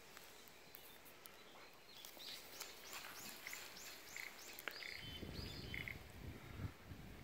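A bird calls faintly: a quick string of repeated high, arching notes at about three a second, then a few higher held notes. Low rumbling noise comes in over the last two seconds.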